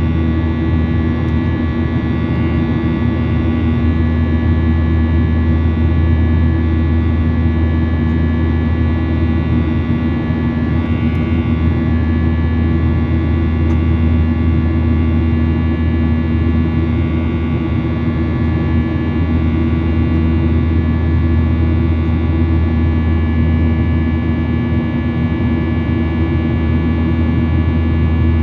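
Steady cabin noise of a jet airliner in flight: a constant low engine drone with airflow rush and several steady whining tones, unchanging throughout.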